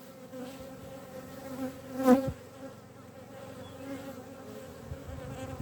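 Honeybees buzzing steadily around an open hive during a frame inspection, with a sharp knock about two seconds in.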